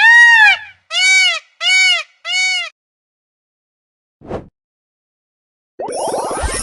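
Indian peafowl (peacock) calling: four loud, wailing calls in quick succession, each an arching tone that rises and falls. A short faint sound follows about four seconds in, and a noisier rushing sound near the end.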